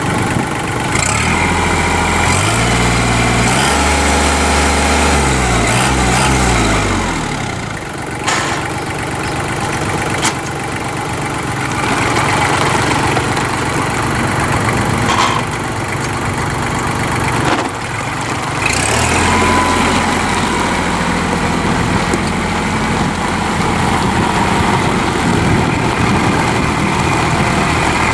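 Kubota L3800 tractor's three-cylinder diesel engine running, its speed changing in the first several seconds, then running on more steadily with a few sharp clunks in between.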